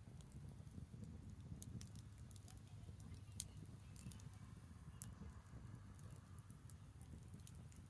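Branch campfire burning with scattered sharp crackles and pops, one louder pop a little under halfway through, over a low steady rumble.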